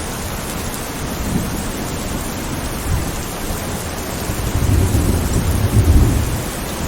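Steady heavy rain with a low roll of thunder that builds about four seconds in, peaks near the end, and fades away, after a couple of faint rumbles earlier.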